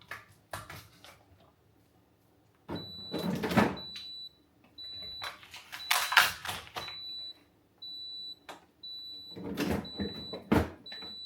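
A kitchen appliance alarm beeping: a steady high electronic tone pulsing on and off repeatedly from about three seconds in. Over it come several bursts of clatter and rustling from drinks and groceries being handled and put away.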